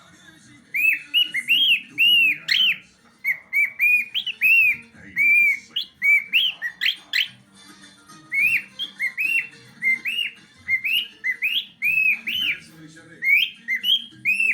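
Excited songbird singing phrases of clear, arched whistled notes, several a second, with short pauses between phrases.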